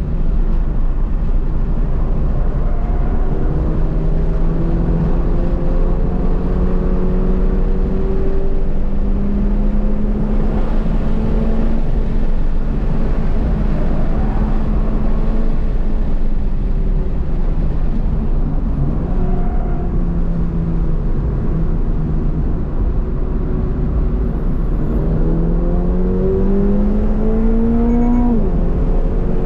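Toyota GR86's 2.4-litre flat-four engine heard from inside the cabin while lapping a race track, its pitch climbing slowly through a long pull and easing off in the middle. Near the end it revs up steeply and drops sharply at an upshift, over steady road and tyre rumble.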